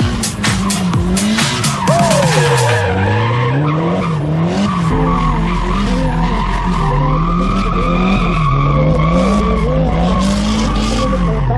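Drift car's engine revving up and down again and again while its tyres screech in a slide, with a rapid run of sharp cracks in the first few seconds.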